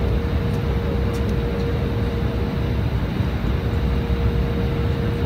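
Cabin noise inside an Embraer E175 jet: its GE CF34 turbofan engines running at a steady pitch over a low rumble, with one steady tone held throughout.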